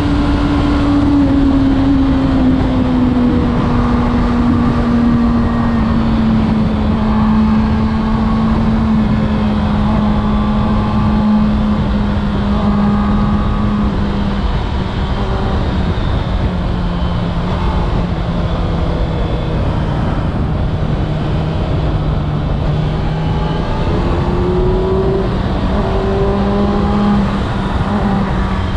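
Kawasaki Ninja ZX6R's inline-four engine running under way at steady speed. Its note eases slowly down in pitch for most of the stretch and climbs a little near the end, over a steady low rush of wind noise.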